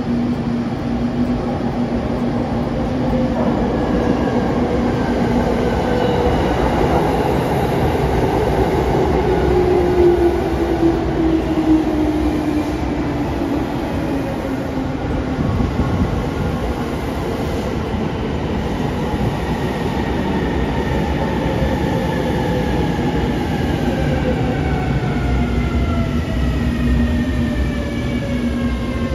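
A railway train running on the rails: a steady rumble with several whining tones that glide slowly down in pitch.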